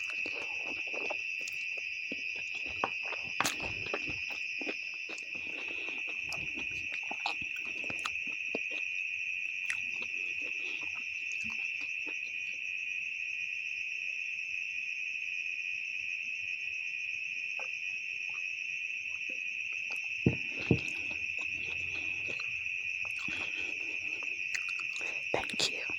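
Crickets trilling steadily in the background, with scattered close eating noises over them: chewing and slurping of noodles and a few sharp clicks, the loudest twice in quick succession about two-thirds of the way through.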